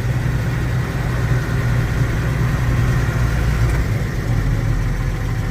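Tractor engine idling steadily, its low pitch shifting slightly about four seconds in.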